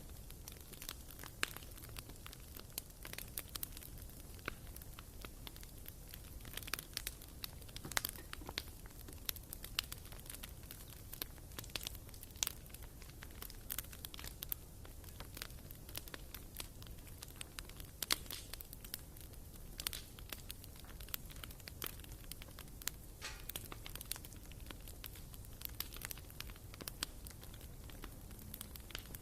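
Firewood burning in a fireplace, crackling with irregular sharp pops and snaps over a faint low rumble.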